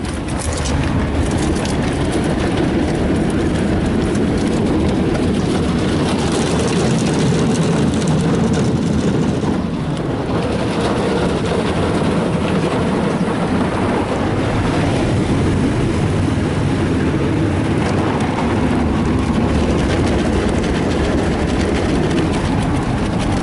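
Ryko Softgloss Maxx 5 automatic car wash working over the car, heard from inside the cabin: a steady, loud rush and rumble of water spray and wash equipment against the body.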